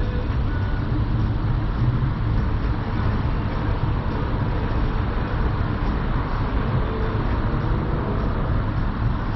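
Car engine idling, a steady low rumble with no change.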